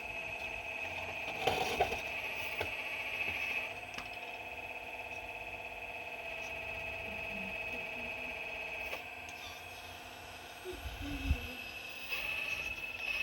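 Excavator working, with a steady high-pitched mechanical whine over a lower hum. There are a few short knocks about a second and a half in, and a low rumble swells near the end.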